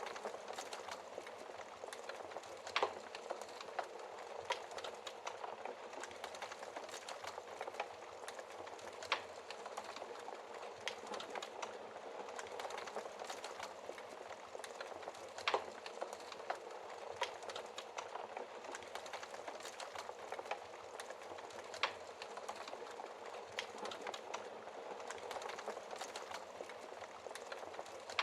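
Wood fire burning in a fireplace: a steady crackle with frequent small ticks and, every few seconds, a sharper pop from the burning wood.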